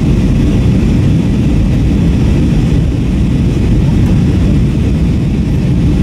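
Steady low cabin roar of an Airbus A321-232 in flight, with engine and airflow noise heard from a window seat near the rear of the cabin.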